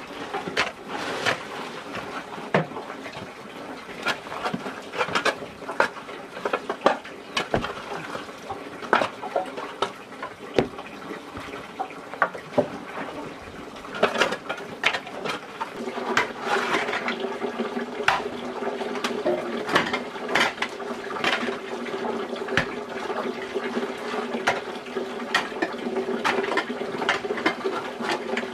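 Water running and splashing, with many sharp knocks and clatters; about halfway through a steady low hum joins in.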